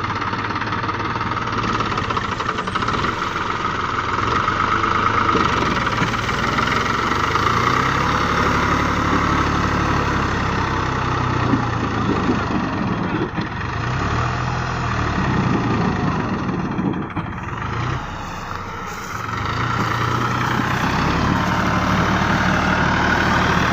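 Diesel engines of a New Holland 4710 4WD tractor and a Kubota combine harvester running together. The engine speed shifts up and down around the middle, and there is a brief dip in loudness about eighteen seconds in.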